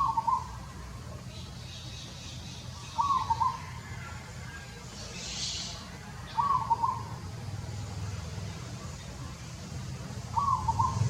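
A bird calling a short warbled phrase, four times at intervals of about three and a half seconds, over a steady low hum.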